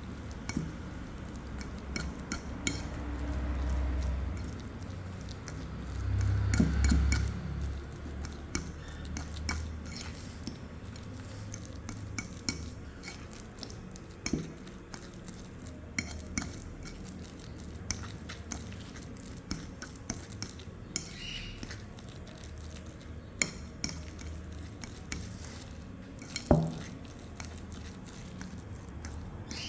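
A utensil clinking and tapping irregularly against a bowl while mashed sweet potato and egg are mixed, with a few dull thumps and one louder knock near the end.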